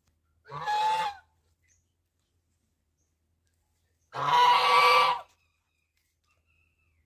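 Domestic goose honking twice, a short harsh call about half a second in and a longer one about four seconds in.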